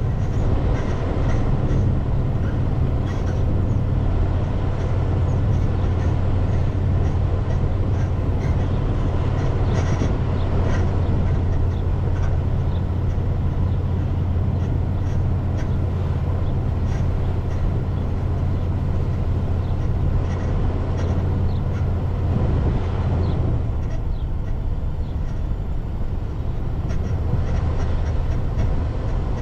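Car driving on post-snow roads: a steady low drone of engine and tyre noise with a haze of road noise and scattered small ticks.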